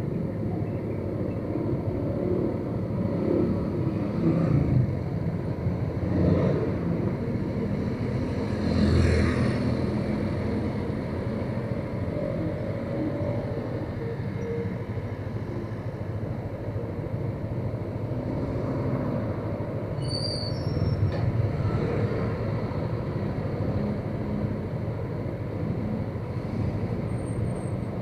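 Motorcycle on the move: steady engine and road noise, with louder swells a few times, about 4, 6 and 9 seconds in.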